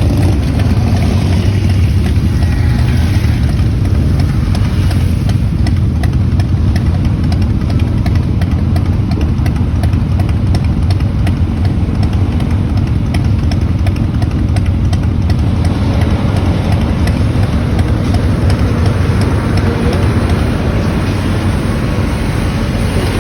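Motorcycle engines idling in a steady low rumble.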